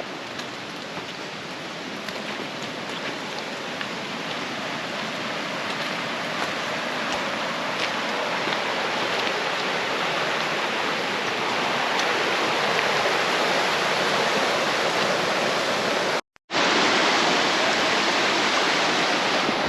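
Creek water running in a steady rush, growing gradually louder. It breaks off in a brief moment of silence about three-quarters of the way through and comes back louder.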